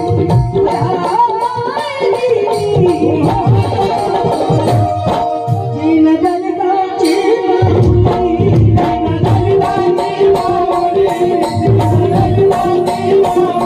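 Marathi folk song: a woman's singing over tabla drumming and steady held accompanying tones.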